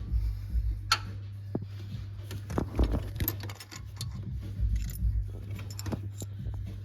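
Irregular small metallic clicks and clinks of hand tools and valvetrain parts being worked on an open engine with its valve cover off, over a steady low hum.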